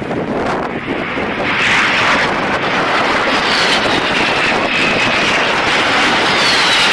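Aircraft engine running loud and close, a steady rush of noise with a high whine that falls in pitch twice.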